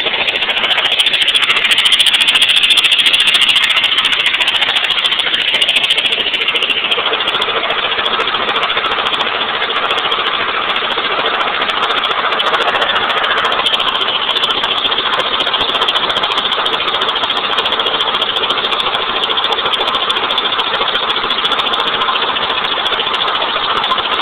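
1989 Honda Accord's four-cylinder engine running steadily at idle after it has blown.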